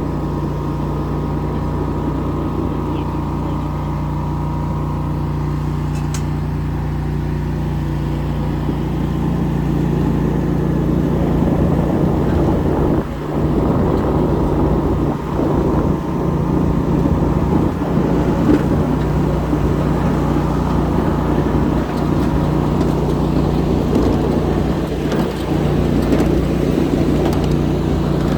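Ride-on 7.5-inch gauge miniature train running along its track: a steady rumble of wheels and locomotive that grows louder about nine to ten seconds in.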